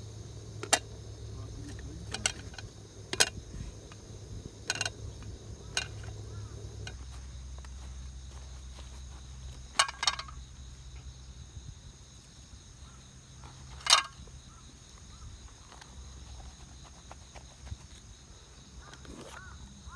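Steady high drone of summer insects, with a low hum underneath that shifts about seven seconds in. Scattered short clinks and knocks of camp cookware, a few loud ones around ten and fourteen seconds in.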